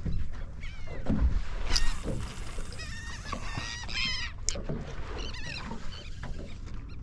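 A flock of feeding seabirds calling over the water: many short, high, repeated cries, over a low rumble of wind and water.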